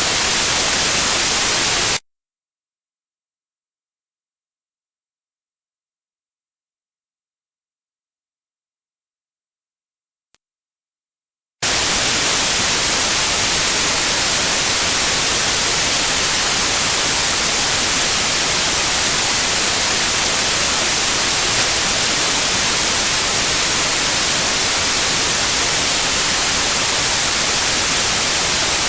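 Electronically generated white noise with a steady, very high-pitched 9645 Hz pure tone, a tinnitus sound-therapy signal. About two seconds in the hiss cuts out, leaving the lone tone for about ten seconds, then the hiss returns.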